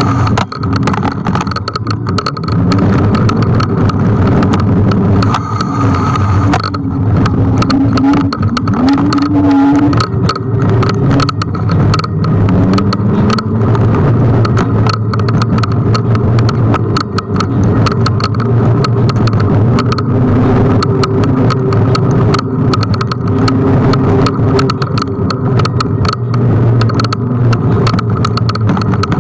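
Riding noise from a Kugoo G1 electric scooter on the move: wind rushing over the microphone and wheels knocking over the road surface, with a faint tone that rises and falls.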